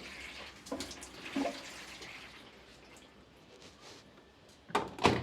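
Water running and splashing for the first couple of seconds, with scattered knocks and two louder knocks near the end.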